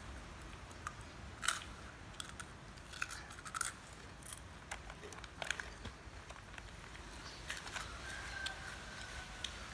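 Crisp tomato-flavoured snack being bitten and chewed: scattered sharp crunches and crackles. A faint thin tone sounds from about eight seconds in.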